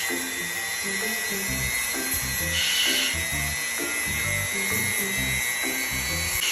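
Dremel rotary tool running with a steady high whine as it files a parrot's toenails, with background music carrying a rhythmic bass line. The whine grows briefly harsher about two and a half seconds in and again at the end.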